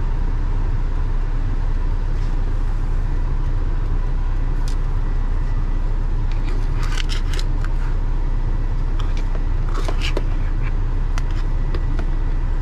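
Semi-truck diesel engine idling steadily, heard from inside the cab as a low rumble. A few light clicks and scrapes come over it, from seasoning being shaken onto burger patties.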